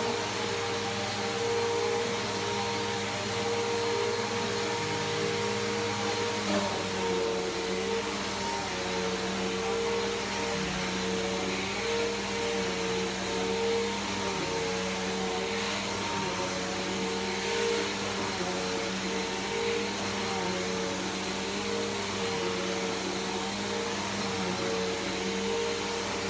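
Bissell PowerForce Helix Turbo upright vacuum running steadily while it is pushed over a rug: a continuous motor whine and suction hiss whose pitch wavers slightly.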